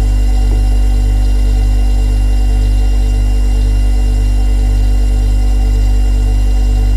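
Refrigerator compressor running: a steady low hum with a slow throb, and several fixed tones above it.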